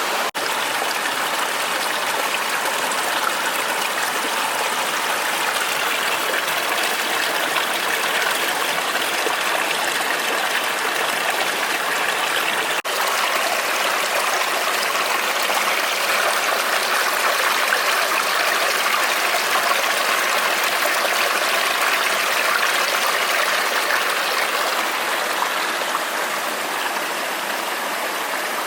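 Steady rushing of a waterfall and the water flowing below it, with two momentary dropouts.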